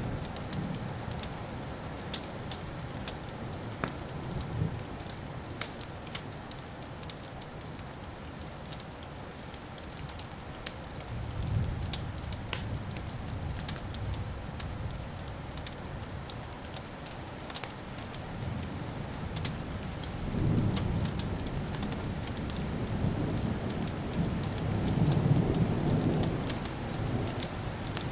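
Fireplace fire crackling with many small pops. Low rolling thunder rumbles swell up several times, loudest near the end.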